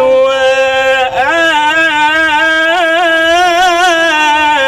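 A man singing an Arabic religious praise chant (ibtihal), holding one long drawn-out syllable with wavering melismatic ornaments over a steady sustained drone note.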